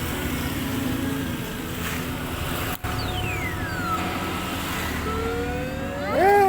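Steady traffic-like background hum around a claw machine. It carries electronic gliding tones: one falls in pitch about three seconds in, one rises near the end, and a louder wavering tone closes the window.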